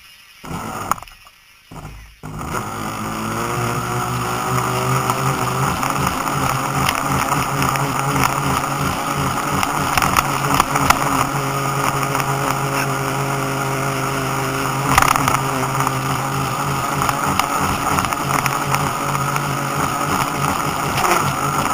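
Radio-controlled model boat motor running at speed over water, with a steady buzzing whine and splashing hiss. After a few brief broken-up sounds, the motor starts about two seconds in, winds up in pitch and then holds steady.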